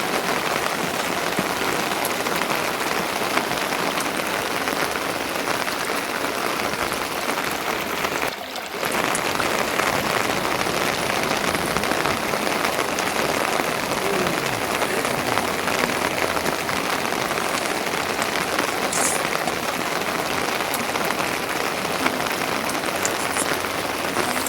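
Steady rain falling, dipping briefly about eight seconds in.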